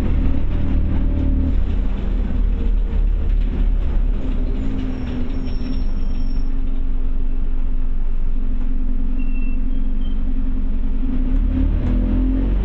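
Scania OmniCity bus engine running, heard from inside the passenger cabin: a steady low rumble whose note drops after about two seconds, holds, and climbs again near the end as the bus pulls away.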